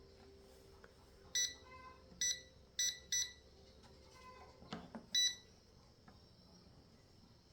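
Short electronic beeps from a balancing machine's control panel: five brief beeps at uneven intervals, with a dull knock just before the last one.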